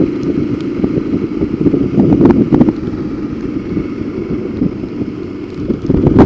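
Motorcycle engine running while riding, with wind buffeting the rider's helmet-mounted microphone.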